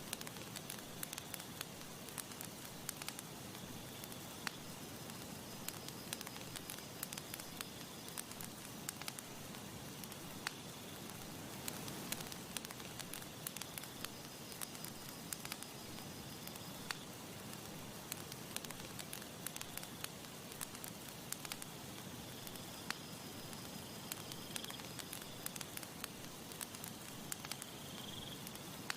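Campfire crackling: frequent sharp pops and snaps over a steady hiss of burning wood.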